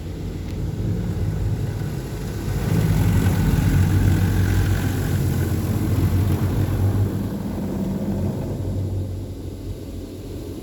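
PDQ Laserwash G5 touchless car wash running through its cycle: a steady low mechanical hum that swells louder for a few seconds in the middle, then eases off near the end.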